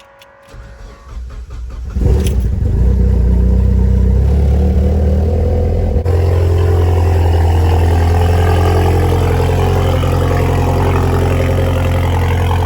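A vehicle engine running loudly and steadily with a low, even note. It builds up over the first two seconds, holds with a brief dip about six seconds in, then stops abruptly.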